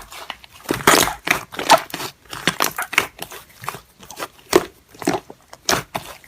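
Slime being played with and squished, giving irregular crackling clicks and pops.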